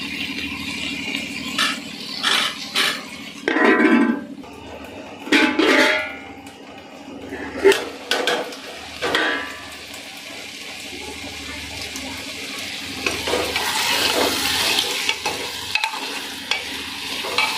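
Vegetables frying in masala in an open pressure cooker, with a steady sizzle. A metal spatula stirs and scrapes against the cooker's sides now and then.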